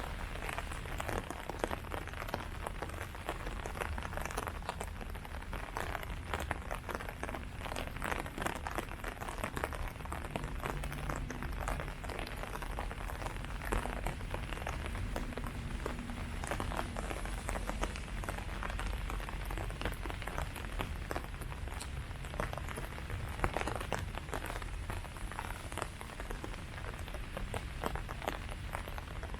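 Steady rain pattering on leaves, with dense, irregular drop hits over a continuous hiss.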